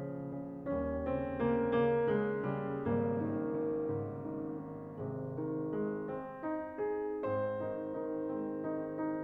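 Piano music playing slow notes and chords, a new note or chord struck about every half second to a second.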